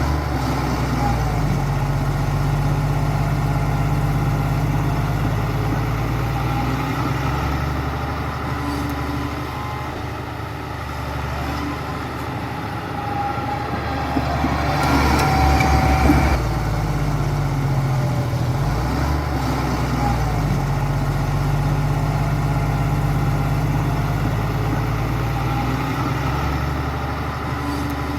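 Heavy diesel engine of construction machinery running steadily. It grows louder and busier about halfway through, then settles back.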